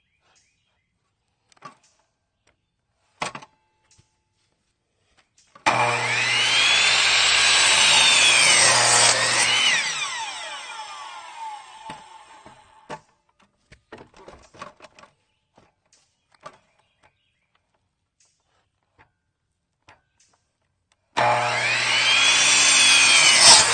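Electric power saw cutting through a wooden board. It starts abruptly, runs loudly through the cut for about four seconds, then the blade spins down with a falling whine. Scattered light knocks follow, and the saw starts again for a second cut near the end.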